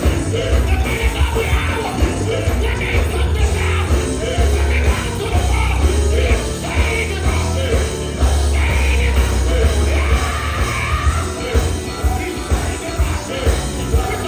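Live gospel band playing loudly with heavy bass, and a singer shouting and singing over it.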